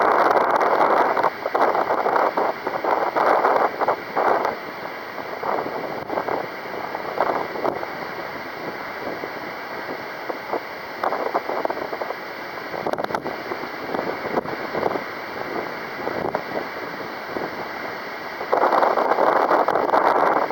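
Strong gusting wind buffeting the microphone: a rushing noise that swells and fades. It is loudest at the start and again near the end.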